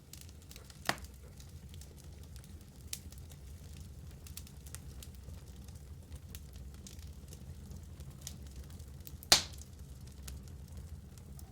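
Wood fire burning in a fireplace: a steady low sound of burning under scattered small crackles, with a sharp pop about a second in and a louder, sharper pop near the end.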